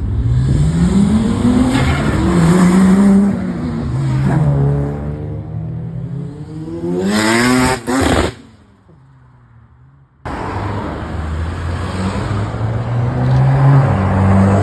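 Car engines revving hard as cars drive off, the engine note rising and falling through the gears, with a sharp rising rev about seven seconds in. The sound drops away suddenly just after that, and a steady engine note returns two seconds later.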